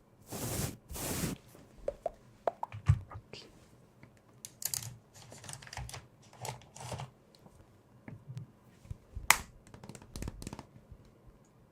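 Close-miked handling of makeup items: two brushing swishes at the start, then scattered small taps, clicks and crinkles.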